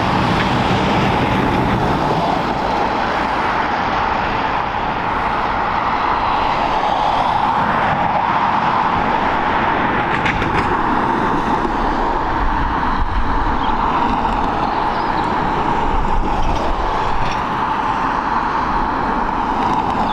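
Airliner jet engines running, a steady roar with a constant whining tone through it.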